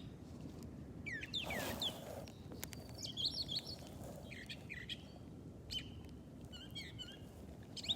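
Wild birds chirping, a few short scattered calls with quick rising notes, over faint outdoor background noise.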